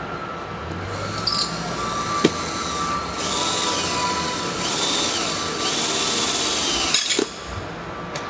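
Power drill driving a 2-inch screw through the table's steel frame and into the top, running in several bursts with a whine that rises and falls, then stopping sharply a little after seven seconds, with a few clicks. The drill's clutch is set low so that it stops before the screw strips.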